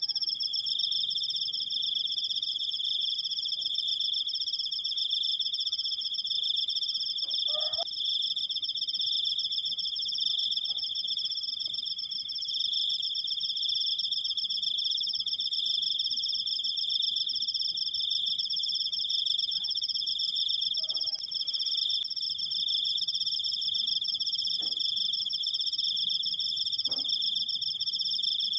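Crickets singing an unbroken, finely pulsing high trill, with two steady pitches sounding together.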